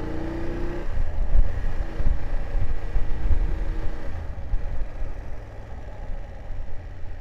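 BMW F750GS parallel-twin engine revving up, its pitch rising for about the first second, then dropping off and running on at a steady pace. A heavy, uneven low rumble of wind buffeting the microphone is loudest from about a second in.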